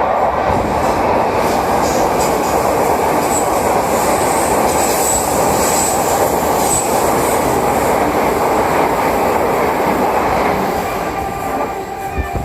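Train running past close by, a loud steady rumble of wheels on rail, with faint high wheel squeals a few seconds in; the noise eases off near the end.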